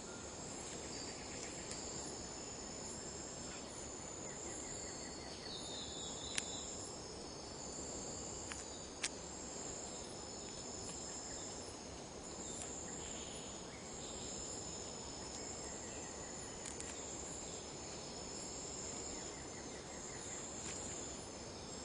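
Tropical forest insect chorus: a steady, high-pitched trilling that swells and fades in long pulses. Two sharp clicks stand out, about six and nine seconds in.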